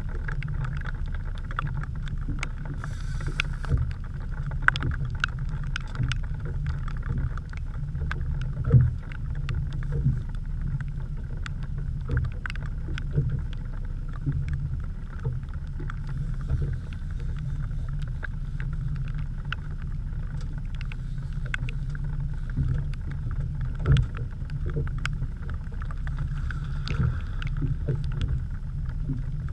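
Heavy rain falling on a small open boat and the camera, heard as many irregular sharp taps over a steady low rumble. Two louder knocks stand out, one about nine seconds in and another near the end.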